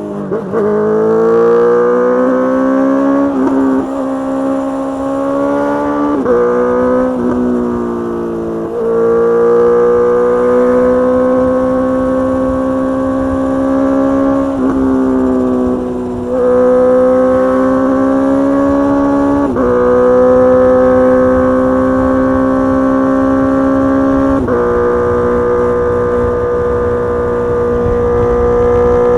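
Honda CBR650R inline-four running through a Mivv GP Pro full-system exhaust at highway speed. Its loud engine note climbs in pitch, then drops abruptly and climbs again several times as the bike shifts up through the gears.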